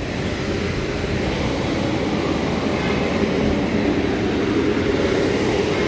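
A heavy vehicle's engine running with a steady rumble, growing gradually louder.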